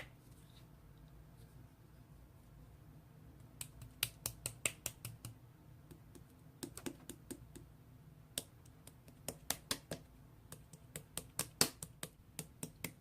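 Slime being pressed and worked by hand, giving runs of sharp, irregular clicks that start about three and a half seconds in and come in bunches.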